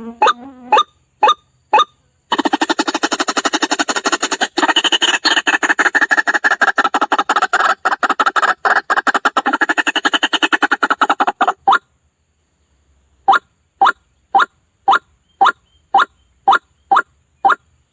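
White-breasted waterhen (ruak-ruak) calls from a lure recording. It opens with loud, sharp call notes at about two a second, then a long, fast, stuttering run of rapid notes lasting about nine seconds. After a brief pause, the sharp notes resume at about two a second.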